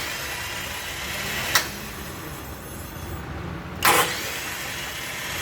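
Start attempt on an Isuzu NQR truck's 4HK1 diesel: the starter engages with loud, sudden bursts, a sharp click about a second and a half in and a longer burst just before four seconds, over a steady mechanical noise. The fault is in the flywheel ring gear, a noise easily mistaken for a bad Bendix drive.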